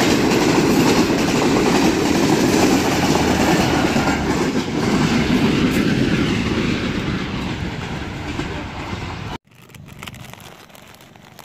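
Pakistan Railways express passenger train passing close by at speed: a loud, dense rumble of wheels on the rails that cuts off abruptly about nine seconds in, leaving much quieter background sound.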